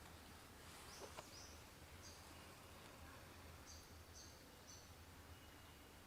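Faint forest quiet with a bird giving several short, high chirps spaced through it.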